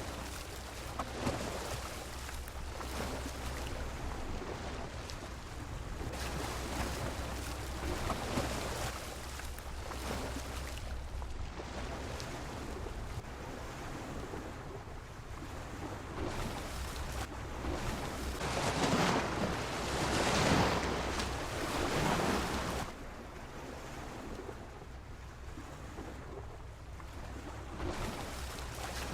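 Sea waves washing against a pier: a steady rush of surf that swells and ebbs every few seconds, with its loudest surge about two-thirds of the way through.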